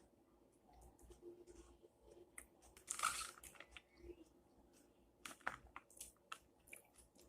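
Close-up chewing and crunching of a chicken bacon ranch salad: faint, irregular mouth clicks and crunches, with a louder crunch about three seconds in and a quick run of sharp clicks a couple of seconds later.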